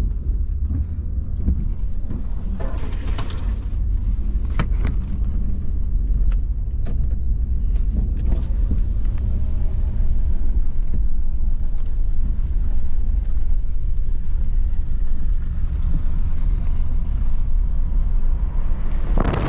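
A motor vehicle driving: a steady, heavy low rumble of engine and road noise, with a few brief knocks early on.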